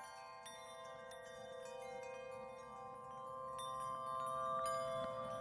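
Chimes ringing: many struck, bell-like notes overlapping and sustaining, growing louder toward the end.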